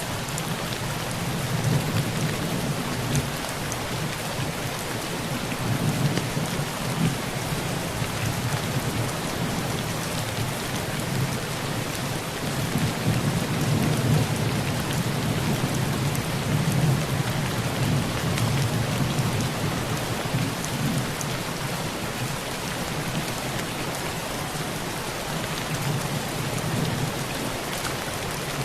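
Heavy rain pouring steadily onto a metal tin roof, with low thunder rumbling underneath that swells and fades several times and is strongest about halfway through.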